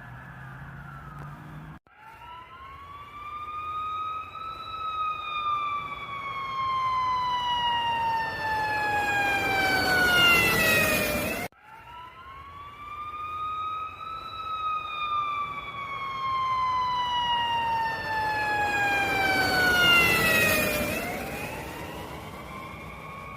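Siren wailing: a long tone that rises, then slowly falls while getting louder, heard twice, each pass cut off abruptly.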